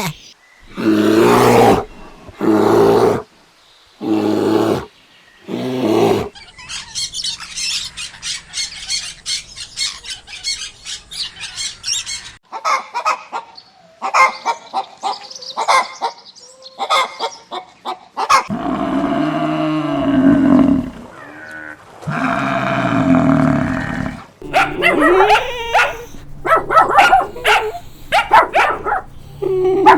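A string of animal calls from several different animals in turn: four loud, drawn-out pitched calls in the first six seconds, a dense high chatter for several seconds after, then a run of mixed cries and growl-like calls.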